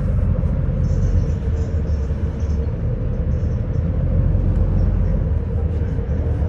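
City bus driving, heard from inside: a steady low engine and road rumble with a constant hum running under it.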